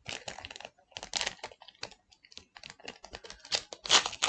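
Digimon trading cards being flicked through and sorted by hand: a quick, uneven patter of light clicks and slaps as card edges strike one another, loudest a little before the end.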